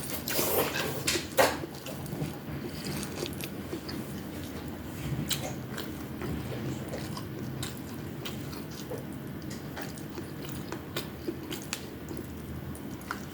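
Close-up chewing of fried tamban fish and rice, with a few sharp clicks in the first second or so and then steady, small wet mouth sounds.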